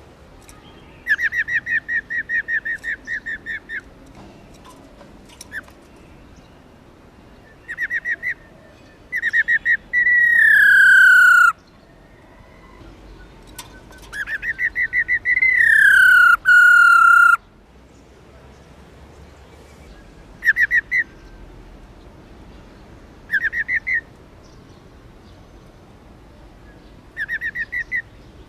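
Female black-throated laughingthrush giving its rattling 'ro ro' call: short runs of quick repeated notes, the longest about a second in. Twice in the middle come long, loud whistles that fall in pitch.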